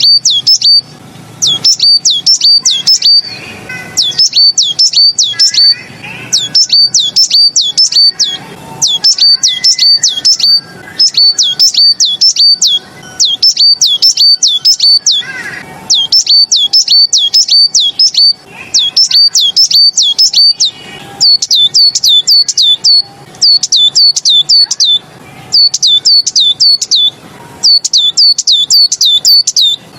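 A songbird known to Chinese bird-keepers as a 'beizi' singing the Tieling-style song: phrases of about six to eight rapid, high, sweeping chirps, each phrase lasting a second or two and separated by short pauses, repeated over and over.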